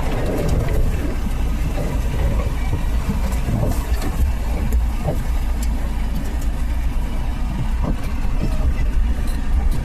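Suzuki Samurai running at low revs, a steady low engine drone with scattered knocks and rattles through it.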